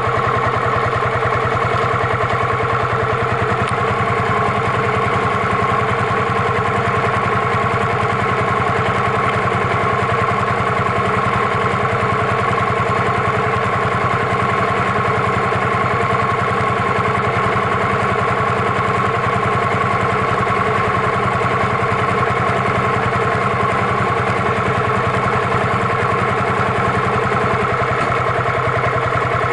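Yamaha SRX400 single-cylinder engine running steadily, its note holding level without revving or shifting.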